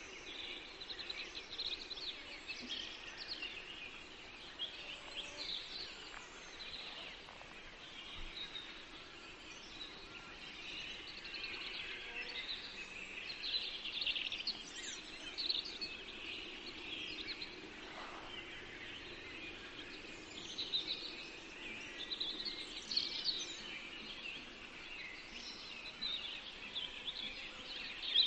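Forest birdsong: many small birds chirping and trilling at once without pause, over a faint steady background hiss.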